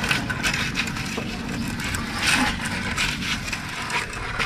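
A wooden straightedge scraping over fresh cement plaster on a wall, in short rasping strokes, with a steady low motor hum behind it.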